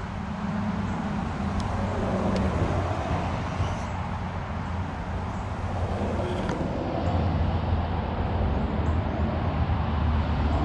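Heat gun blowing steadily, melting the solder in solder-seal connectors on the boat's wiring, with a steady fan hum under a rush of air.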